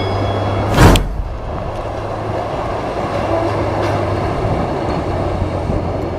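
A vehicle rolling along railway track, a steady rumble with a low hum, and one loud thump about a second in.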